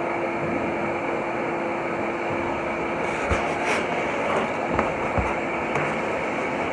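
Vacuum cleaner running steadily as it sucks up dryer-vent lint, with a few short knocks of the nozzle or hose from about halfway through.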